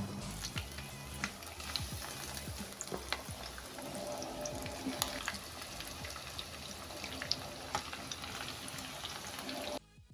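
Breadcrumb-coated chicken pieces frying in hot oil in a pan: a steady sizzle scattered with sharp pops and crackles, cutting off suddenly just before the end.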